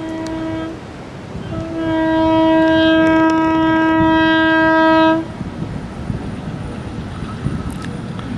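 Electric locomotive horn sounding one steady note: a blast that ends just under a second in, then a longer, louder blast of about three and a half seconds that cuts off sharply. The rumble of the passing train follows.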